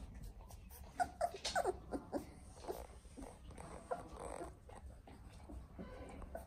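Young Clumber Spaniel puppies, about three and a half weeks old, whimpering and squeaking: a string of short, high cries that fall in pitch, bunched about one to two seconds in, with fainter ones after.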